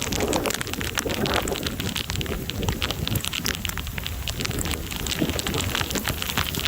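Heavy thunderstorm rain, with dense, irregular drops striking close to the microphone over a steady low rumble.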